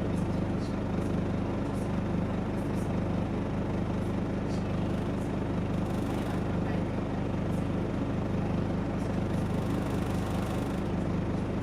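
Scania OmniDekka double-decker bus's engine running steadily with a low, even drone.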